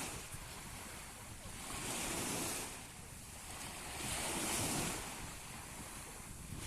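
Sea waves breaking on the shore, the surf hiss swelling three times about two seconds apart, with wind rumbling on the microphone.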